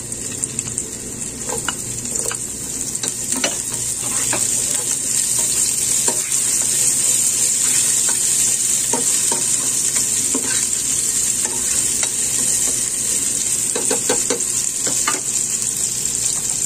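Chopped onion, garlic and ginger sizzling in hot oil in a nonstick pot, the sizzle growing louder a few seconds in, with scattered scrapes and taps of a spatula stirring them.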